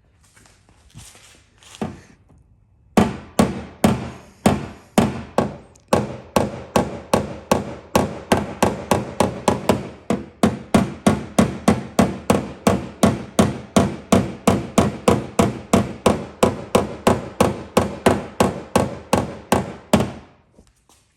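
A long run of rapid, evenly spaced hammer taps on a metal body panel, about three a second, starting about three seconds in and stopping near the end, each with a short ring.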